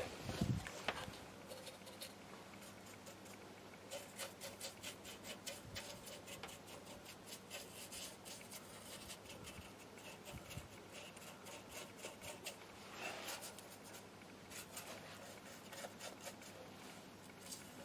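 Quick, faint scratchy brush strokes as rust converter (Hammerite Kurust) is worked onto the sanded steel of a van bumper, coming in runs of several strokes a second.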